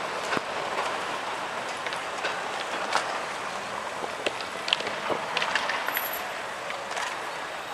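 A historic tram running on street rails, its wheels clicking and clattering irregularly over the track, over a steady rumble.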